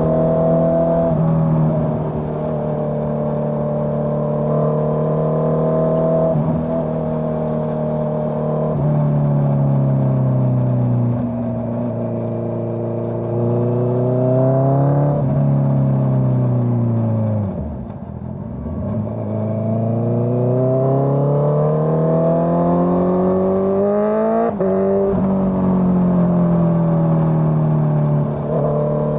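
Honda CBR650R inline-four engine through a Dominator GP full-system exhaust, pulling through the gears: the pitch climbs and drops sharply at each upshift, falls to low revs as the bike slows about midway, then climbs again as it accelerates away.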